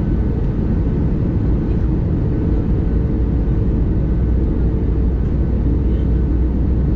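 Steady cabin noise inside an Airbus A320neo during descent: a deep, even rumble of engines and airflow with a faint steady hum over it.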